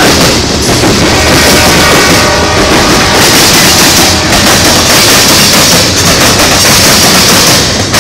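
Freight cars of a Norfolk Southern mixed freight train rolling past close by: a very loud, steady rumble and clatter of steel wheels on rail, with rapid banging as the wheels cross a track diamond.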